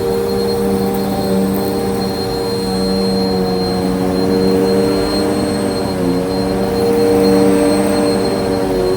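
Bissell vacuum cleaner running, its motor holding a steady hum of several tones, with a brief dip in pitch about six seconds in.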